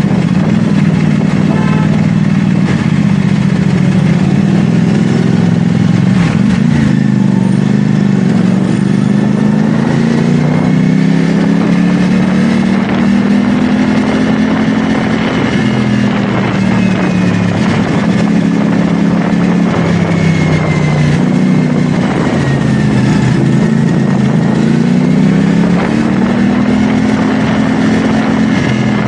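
CFMoto 450SR S parallel-twin engine running under way, its pitch rising and falling repeatedly as the throttle is opened and rolled off, over a steady rush of wind and road noise.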